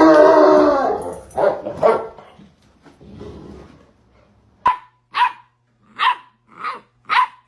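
A dog barking. A long, loud bark at the start is followed by two more, then a run of five short, sharp barks about half a second apart in the second half.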